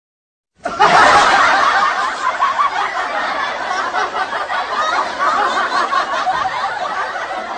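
A dense clamour of many voices together, starting abruptly about half a second in.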